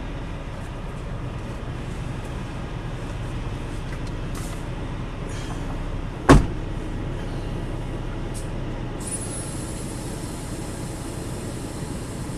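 Kenworth T680 semi truck's diesel engine running steadily, with one sharp, loud knock about six seconds in.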